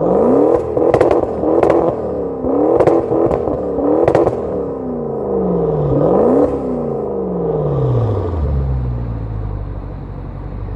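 Maserati Quattroporte GTS twin-turbo V8 revved hard several times in quick blips, with sharp exhaust cracks among the early revs, then one longer rev that drops back to a steady idle near the end.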